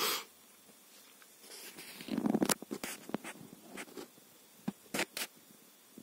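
Light handling noise on a workbench: rustling and scraping about two seconds in, then a scattering of sharp clicks, two of them close together near the end.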